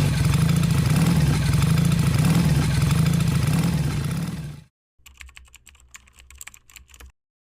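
Motorcycle engine running loud and steady for about five seconds, then cutting off suddenly; a few faint clicks follow.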